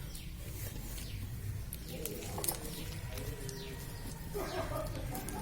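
Birds calling, with a low cooing about two seconds in, over a steady low hum.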